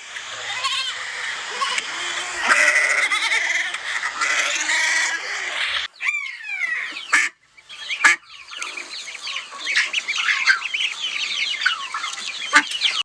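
A flock of animals calling over one another in a dense chorus, broken by cuts about six, seven and eight seconds in, after which many quick downward-sliding calls crowd together.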